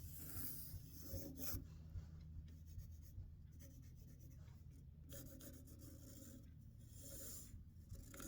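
Pencil drawing layout lines on a wooden workpiece: faint, scratchy strokes in two stretches, the first stopping about a second and a half in and the second starting about five seconds in.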